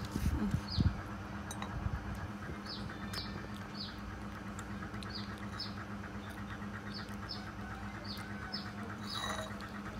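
A small bird chirping in short, high, falling chirps, often in pairs, every second or so, over a steady low hum. A few low thuds come in the first second.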